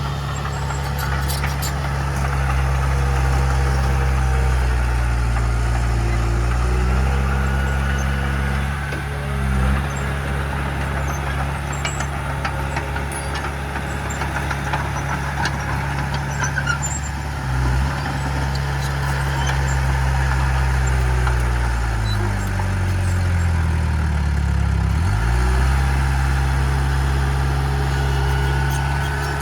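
Heavy diesel engine of earthmoving machinery running continuously, its note shifting with throttle and load. Near the end it sags lower and then climbs back up, as it does under heavy load.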